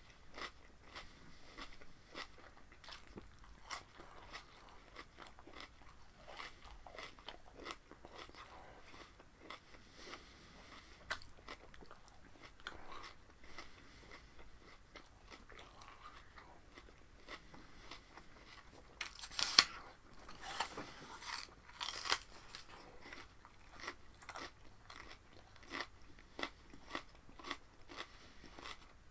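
A person biting and chewing raw vegetables with many short, crisp crunches, loudest in a burst of bites about two-thirds of the way in.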